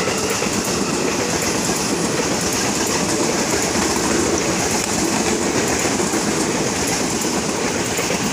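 KRL commuter electric multiple unit passing close by, a loud steady running noise of its wheels on the rails as the carriages go past.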